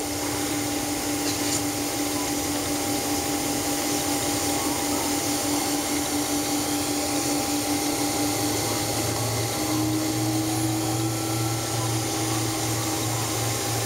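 Steady cabin noise inside a Boeing 767-300 airliner taxiing after landing: engines at idle and air-conditioning rush making an even hiss with a steady hum. A deeper hum joins about eight seconds in and the hum steps up slightly in pitch soon after.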